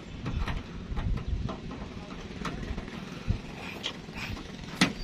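Scattered light clicks and knocks of hand work on metal over a low, steady rumble, with one sharper click just before the end.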